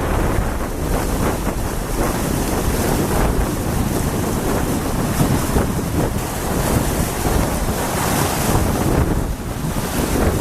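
Loud wind buffeting the microphone: a steady rumble with hiss above it.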